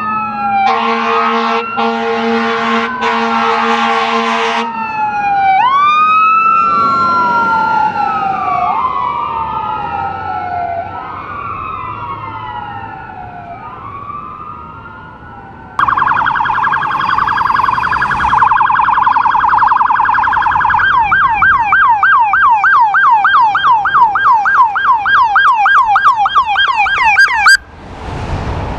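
Emergency vehicle sirens: an electronic siren rising, three blasts of an air horn, then the siren wailing in slow sweeps that fade away. About 16 seconds in, a second, louder siren cuts in with a rapid warble, then switches to a fast yelp of about four cycles a second that stops abruptly near the end.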